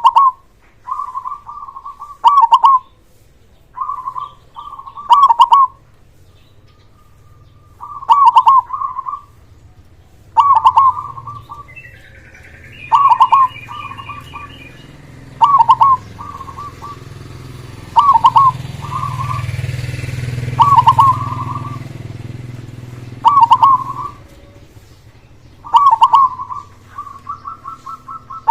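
A zebra dove (perkutut) sings over and over, giving loud, short ringing coo phrases every two to three seconds. A low rumble rises and falls in the middle.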